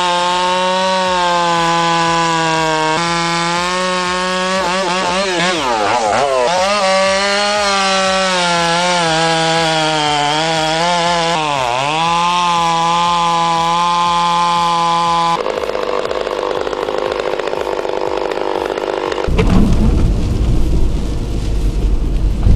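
A modified big Stihl chainsaw running at high revs while it cuts big oak, its pitch dropping twice under load as the chain bites into the cut. About 15 seconds in the sound changes, and near the end a loud low rumbling noise takes over.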